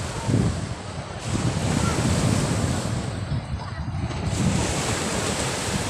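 Sea waves washing continuously on the shore, with wind buffeting the microphone as a low rumble.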